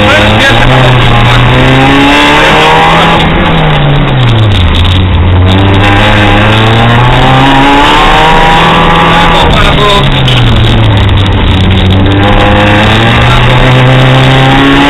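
Fiat Seicento rally car's engine heard from inside the cabin while being driven hard, revs climbing and dropping through gear changes and braking. The pitch falls steeply about four seconds in and again near ten seconds.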